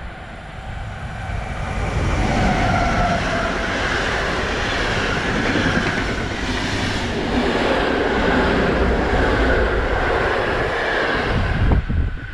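A locomotive-hauled PKP Intercity express train passing at speed through a station without stopping. The noise of the locomotive and coaches swells over the first two seconds, holds steady as the coaches go by, and drops off suddenly near the end.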